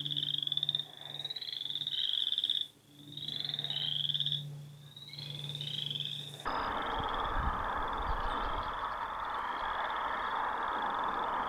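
Frogs calling in a chorus of repeated short rising trills, one after another. About six and a half seconds in, a louder steady rushing noise comes in and the trills carry on more faintly beneath it.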